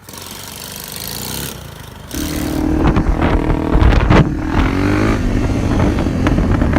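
Pit bike's small single-cylinder engine running loud and revving close to the microphone, coming in suddenly about two seconds in after a quieter rushing noise.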